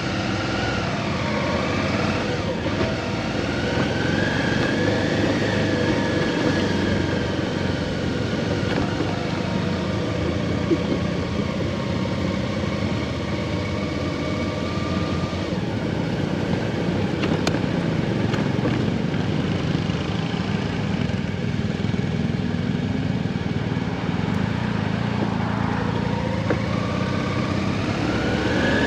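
Motorcycle engine running on the road, its note slowly rising and falling with speed over a steady rushing noise.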